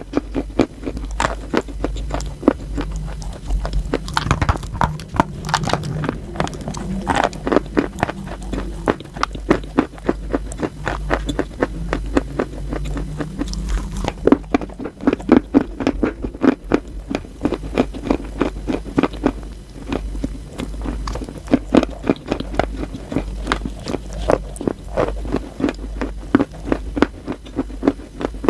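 Chalk being bitten and chewed close to the microphone: a dense, continuous run of sharp crunches and crackles, many each second, over a steady low hum.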